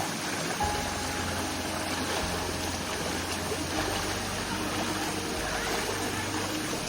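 Stream water rushing, a steady even hiss.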